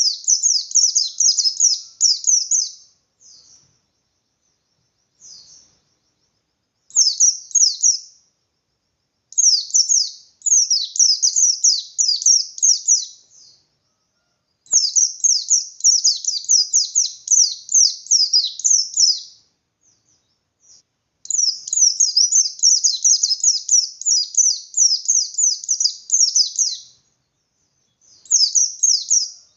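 A white-eye (pleci, bustomi type) singing its fast, aggressive 'ngalas' song: high, rapid strings of downward-slurred chirps in phrases a few seconds long, with short pauses between them, five or six phrases in all. This is the open-beaked, combative song that white-eye keepers use to provoke other white-eyes into answering.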